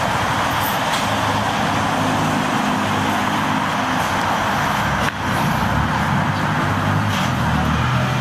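Kawasaki ZX6R inline-four engine running steadily through a stainless-steel slip-on exhaust with an Excalibur GP CNC tip, with a short dip in level about five seconds in.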